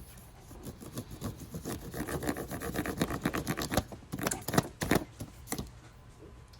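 Crayon rubbed quickly back and forth over paper, a rapid run of scratchy strokes that builds after about a second, is densest in the middle and dies away near the end.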